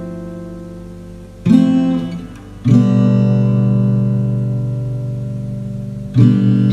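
Background music: an acoustic guitar strumming slow chords, three strokes each left to ring out and fade.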